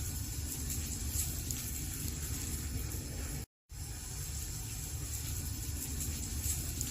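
Wood fire burning in a fireplace: a steady low rush with scattered crackles and pops. The sound cuts out for a moment about halfway through, then resumes.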